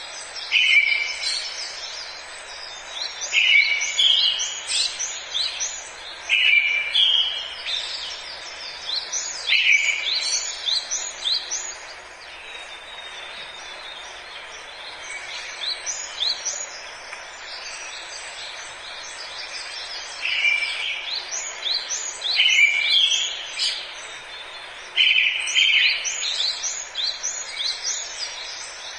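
Forest ambience of songbirds singing: short chirping song phrases that repeat every few seconds, some quieter stretches in the middle, over a steady background hiss.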